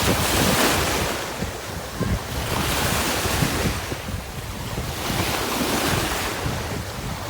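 Ocean waves washing onto a beach, a continuous rushing surf that swells and falls back every few seconds, with a low rumble of wind on the microphone.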